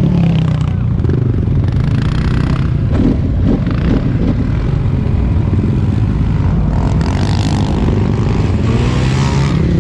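ATV engine running under way, its engine speed rising and falling a little.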